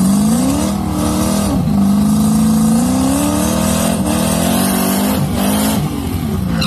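C5 Corvette Z06's V8 held at high revs through a burnout, the revs climbing at the start and rising and dipping several times as the rear tyres spin and smoke. The revs fall away near the end.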